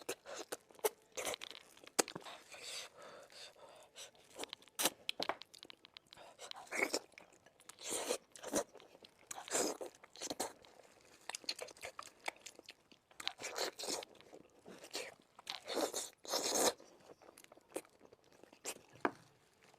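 A person chewing and biting on sweet and spicy pork bones: irregular mouth clicks and smacks, some much louder than others, with short pauses between bites.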